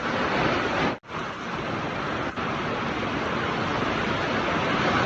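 Heavy rain pouring down, a steady hiss, broken by a brief gap about a second in.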